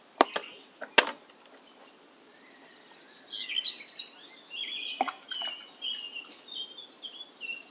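A bird singing in quick chirping phrases for the second half, over faint outdoor hiss. Two or three sharp clicks or knocks come in the first second and one more about five seconds in.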